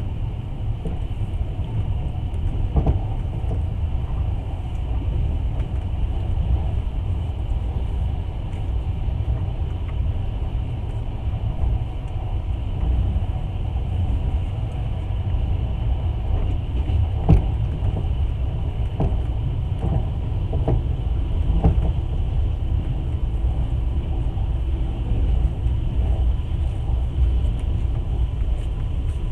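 Passenger train running along the track, heard from inside the carriage: a steady low rumble with a few sharp clacks, most of them a little past the middle.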